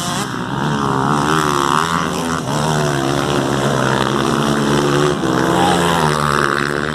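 Motocross bikes racing on the track, their engines revving up and down as several of them pass.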